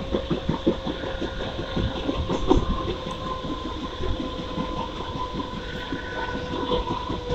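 Mumbai suburban electric local train running along the track, heard from on board: a continuous rattle and clatter of wheels on rails over a steady hum.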